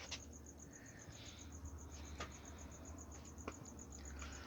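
Cricket chirping steadily in the background, a high, evenly pulsed trill at about seven pulses a second, with a few faint clicks.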